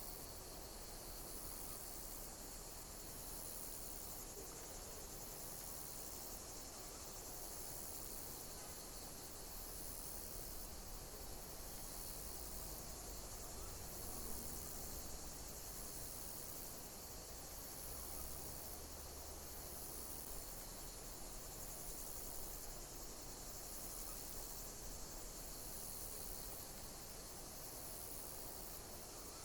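A chorus of insects chirping, high-pitched and steady, with a pulsing pattern that repeats about every two seconds.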